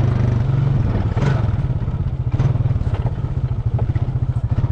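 Motorbike engine running steadily under way, its pulsing note constant, with clattering and knocks from riding over rough ground.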